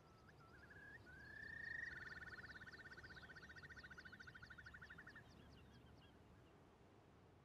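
Birds calling faintly: a few short notes, then a long rising call that runs into a rapid trill for about three seconds, over a chatter of thin high calls.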